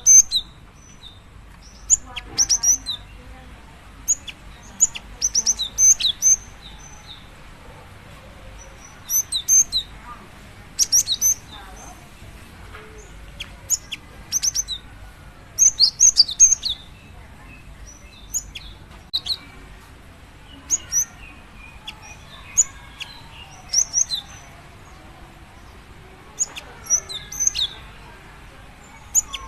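Female cinereous tit (gelatik batu) calling to a male: short high chirps in quick clusters, repeated every second or two.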